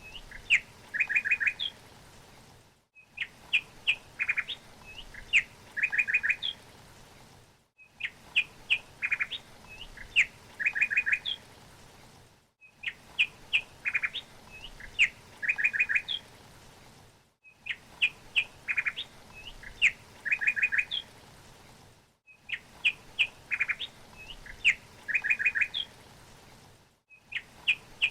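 Bird chirping: a quick run of short high chirps and rapid trilled notes. The same phrase repeats about every five seconds, each time after a brief silent gap, as a looped recording.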